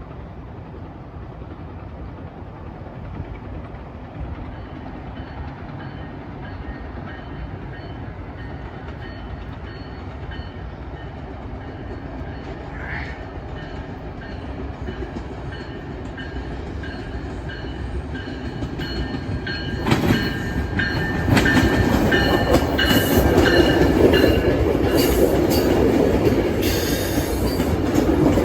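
Train approaching and running past, its rumble growing louder and rising sharply about twenty seconds in, with wheels clattering over rail joints.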